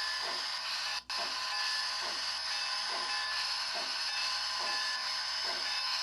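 Steam sound from the LokSound V4.0 Select decoder in an HO-scale Bachmann Spectrum three-truck Shay, played through the model's small speaker: a steady hiss with a soft chuff repeating a little less than once a second. The sound drops out for an instant about a second in.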